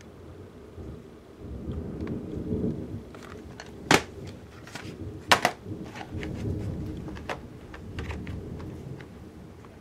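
Thunder rumbling low in two long rolls, one about two seconds in and one about six seconds in, over a faint hiss of rain. Two sharp clicks, the loudest sounds, come about four and five seconds in.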